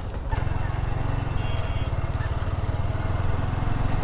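Motorcycle engine running with a steady, rapid low pulse, getting louder about a third of a second in as the bike pulls away.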